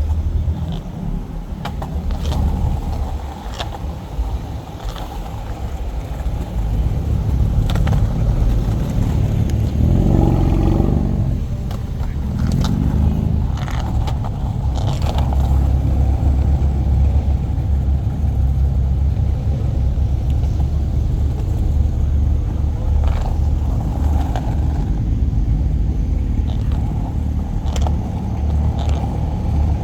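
Car engine running with a deep, steady exhaust drone, swelling briefly about ten seconds in.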